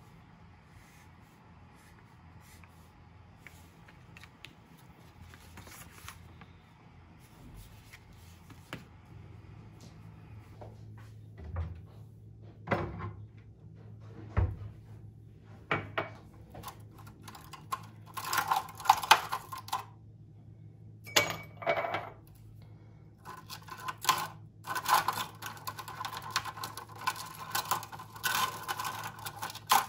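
Dishes and cutlery being handled: faint scattered clicks at first, then knocks and bursts of clinking and clattering from about the middle on, over a low steady hum.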